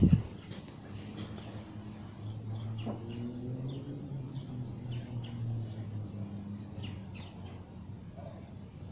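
A small bird chirping in many short, high tweets. A loud low thump comes right at the start, and a low steady hum runs through the middle.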